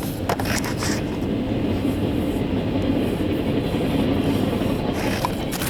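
CSX mixed freight train rolling past, a steady noise of wagon wheels on the rails with a few brief clatters near the start and the end.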